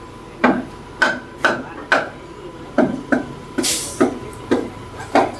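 Repeated hammer blows on metal, about two a second, each with a short ring, starting about half a second in; a brief hiss cuts in near the middle, and a faint steady tone sounds under it all.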